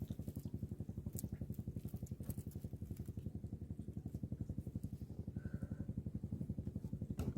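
Small boat's diesel engine running steadily at idle, a rapid even chugging.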